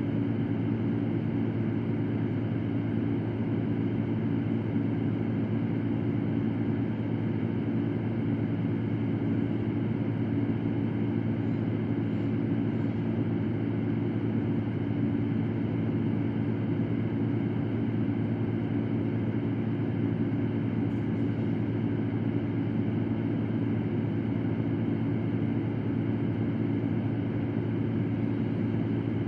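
Electric fan running steadily: an even whooshing hiss over a low, unchanging motor hum.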